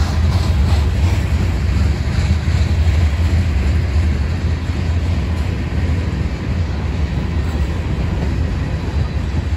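Freight cars of a manifest train rolling past: a steady, loud low rumble of steel wheels on rail.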